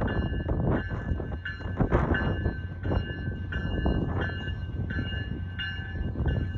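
A train passing at track level, its wheels clicking over the rail joints at uneven intervals under a steady high ringing tone.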